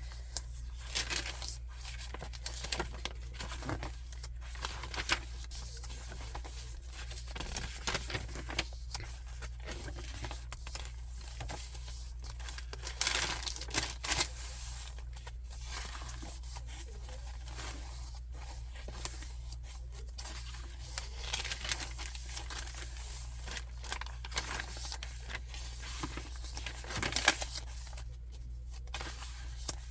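Paper pages of a handmade junk journal being turned and handled, with irregular rustling and crinkling of stiff, crunchy papers. A steady low hum runs beneath.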